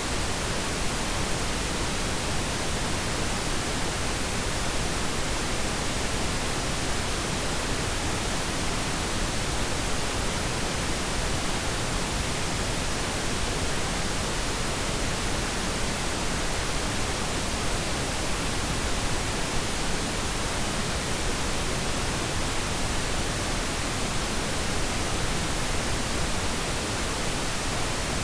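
Steady synthetic pink noise: an even, unchanging hiss spread across all pitches, softer in the highs than white noise.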